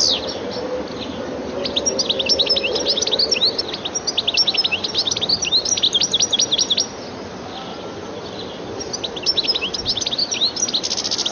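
European goldfinch singing: rapid twittering phrases of quick, high, tinkling notes. The song breaks off for about two seconds past the middle, then starts again.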